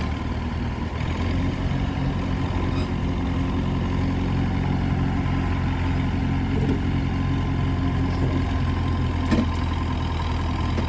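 Truck engine running while towing a heavy trailer out of soft, sinking ground. The note comes in suddenly, steps up slightly about a second in, then holds steady.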